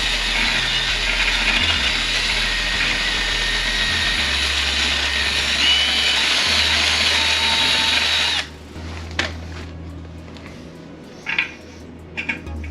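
Power drill with a reamer bit running steadily in the bolt hole of a porcelain toilet, reaming out buildup so the bolt will pass through; it stops abruptly about eight seconds in, followed by a few light clicks and taps.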